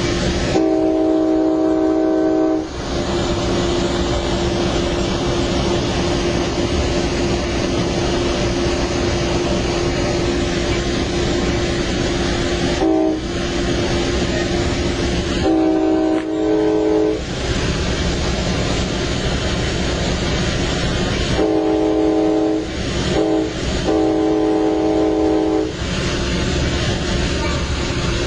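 A locomotive horn sounds a multi-note chord over the steady running noise of a moving train. A first long blast comes near the start and a short toot about halfway, then near the end the long, long, short, long pattern of a grade-crossing warning.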